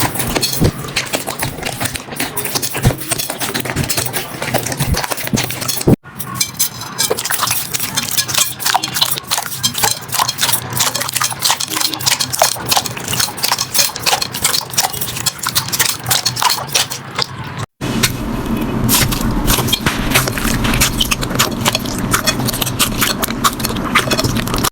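Slime being squeezed, poked and stretched by hand, giving a dense run of small wet clicks, crackles and pops. The sound cuts abruptly to a new clip about 6 seconds in and again near 18 seconds, where it turns fuller and lower.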